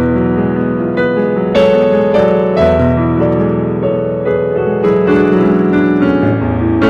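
Slow instrumental piano music, sustained chords changing about once a second, each with a soft struck attack.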